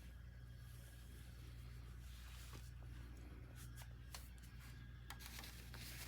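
Near silence: a steady low electrical hum, with a few faint clicks and rustles in the second half.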